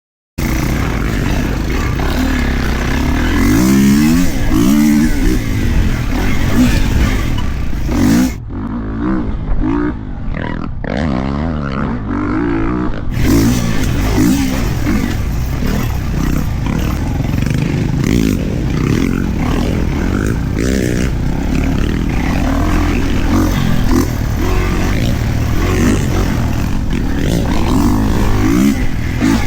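Kawasaki KX450 four-stroke single-cylinder dirt bike engine being ridden hard, revving up and falling back again and again as the rider works the throttle and gears. For a few seconds about a third of the way in, the throttle is eased and the engine drops lower and quieter before it picks up again.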